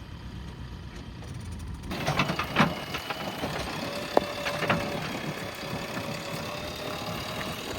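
Backhoe loader's diesel engine running, getting louder about two seconds in, with several sharp knocks and clanks over the next few seconds.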